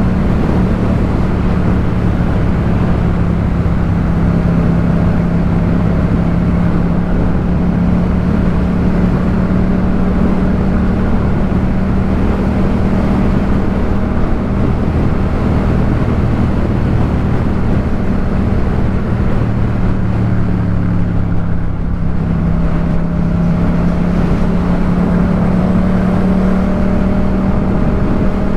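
Yamaha MT-07 parallel-twin engine breathing through a Jeskap K4 full aftermarket exhaust, running at a fairly steady engine speed while riding. The pitch holds nearly level, with a short dip about three quarters of the way through before it settles again.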